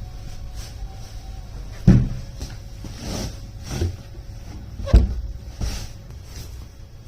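Knocks and clunks of household objects being handled and set down, with two sharp thuds about two and five seconds in and a few lighter knocks between, over a low steady hum.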